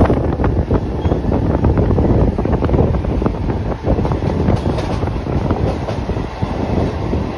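Train running on the rails: a steady low rumble with irregular sharp clicks of the wheels, and wind buffeting the microphone.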